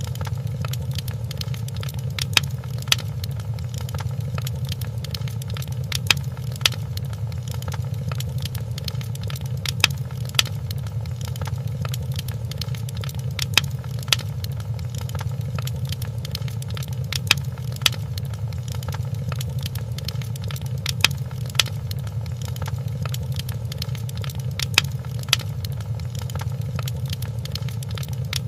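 Fireplace crackling: a steady low rumble of burning logs under constant small crackles, with pairs of louder sharp pops about every four seconds.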